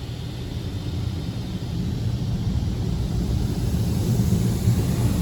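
Water spray from a PDQ Laserwash 360 touchless car wash hitting the car, heard from inside the cabin as a low rushing noise that grows steadily louder.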